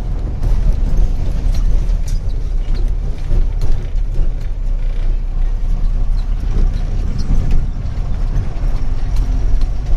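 Truck engine and road noise heard inside the cab while driving: a steady low rumble with scattered light rattles and clicks.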